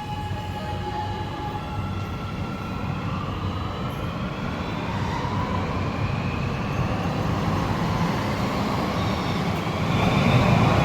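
Metro train's electric traction motors whining, several tones rising together in pitch as the train accelerates, over a steady rumble of the train that grows louder near the end.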